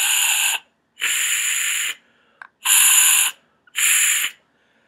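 Breath blown in short blasts through a pump-spray mechanism with no straw fitted, making a loud, rough white-noise hiss. One blast ends about half a second in, and three more follow, each about half a second to a second long.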